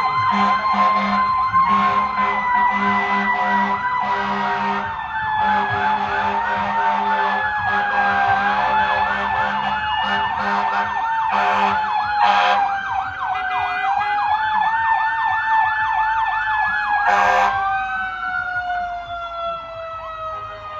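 Fire truck sirens sounding together: a steady mechanical siren wail that winds down over the last few seconds, a fast electronic yelp over it, and repeated air horn blasts.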